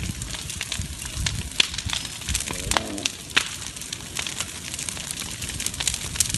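Forest fire burning through vegetation: dense, irregular crackling and popping over a steady low rumble.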